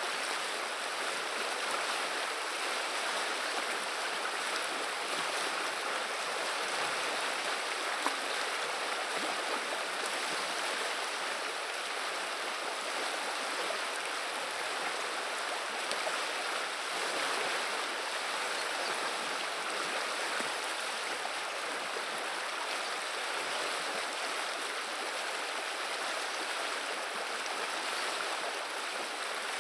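Viliya river water running and babbling in a steady, even rush. There is a single brief click about eight seconds in.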